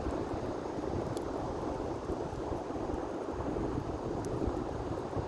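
Bonfire burning with a steady rushing noise and two faint pops, one about a second in and one near the end, with wind buffeting the microphone.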